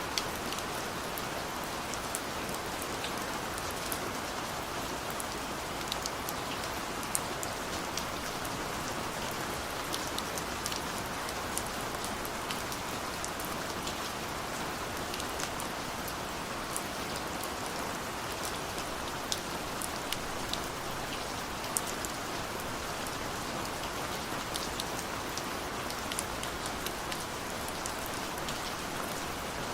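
Steady rain falling, with an even hiss and many individual drops ticking sharply on a surface throughout.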